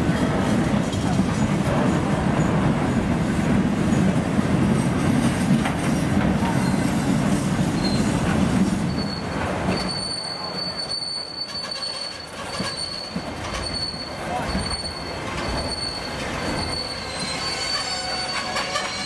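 Freight train of gondola cars rolling slowly past, steel wheels rumbling and clattering on the rails. After about nine seconds it drops quieter, and a high-pitched wheel squeal comes and goes over and over as the cars keep moving.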